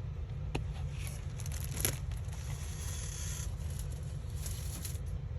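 Paper and card being handled: two light taps, then about a second of rustling paper near the middle, over a steady low hum.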